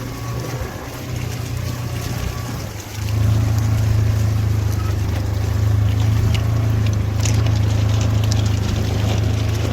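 Engine of a Ranger utility vehicle running steadily while driving, getting louder about three seconds in.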